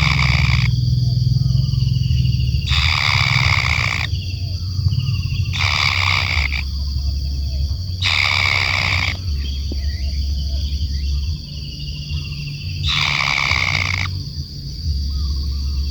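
Tengkek kayu kingfisher giving harsh, grating calls about a second long, five times, repeated every two to four seconds, over a steady low hum and a constant high-pitched whine.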